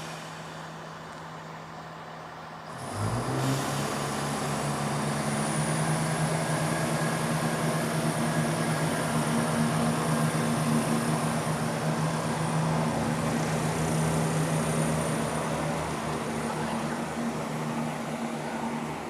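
Diesel train engine throttling up about three seconds in, then running steadily under power with a low throb.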